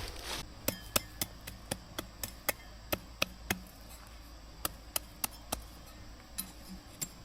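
A quick series of sharp knocks, like hand-tool strikes, about four a second for the first few seconds, then a pause and a few more spaced out.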